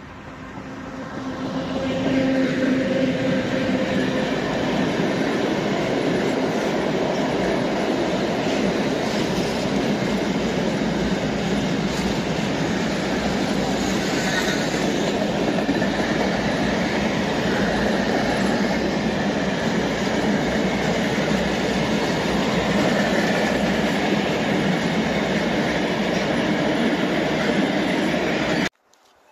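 Freight train hauled by a PKP ET22 electric locomotive passing close by, its wagons rolling steadily on the rails. A humming tone sounds in the first few seconds as the noise swells. The sound cuts off abruptly about a second before the end.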